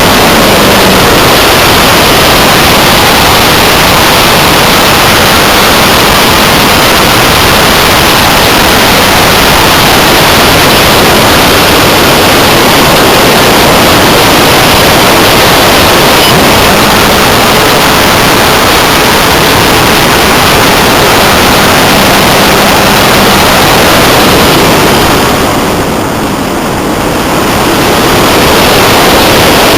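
Loud, steady rush of wind and electric motor and propeller noise on the tiny microphone of an onboard camera riding a Multiplex Blizzard electric RC hotliner in flight. The noise eases and dulls briefly about 25 seconds in, then comes back.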